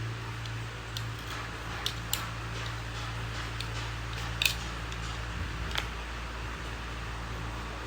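Several short, sharp clicks and taps of tools or parts being handled during repair work, the loudest about four and a half seconds in, over a steady low hum.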